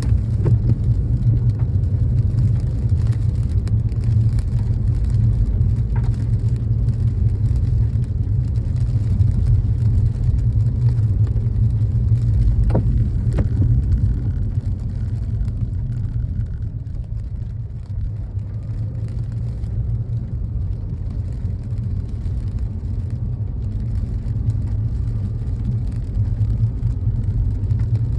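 Steady low rumble of a car driving, easing a little past halfway, with a few faint knocks.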